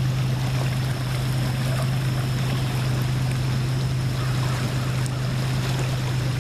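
Storm runoff rushing steadily through an over-full roadside ditch, with a constant low hum underneath.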